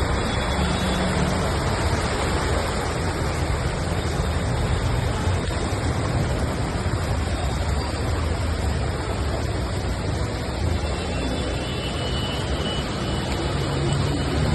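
Steady road traffic noise with a constant low engine rumble.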